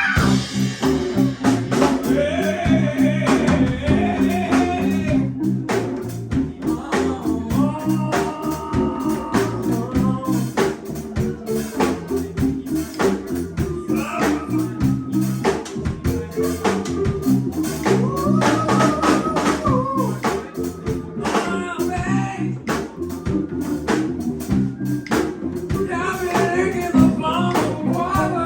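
Live band jam in a bluesy style: a drum kit keeping time under electric guitar, with a melodic lead line sliding over the top.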